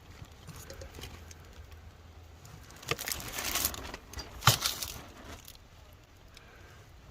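Handling noise of things being worked by hand: light clicks and rustling, with a louder rustle about three seconds in and a sharp knock about a second later.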